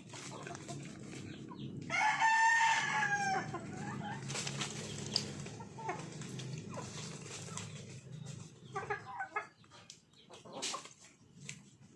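A rooster crowing once, a long call about two seconds in, with chickens clucking in short bursts later on.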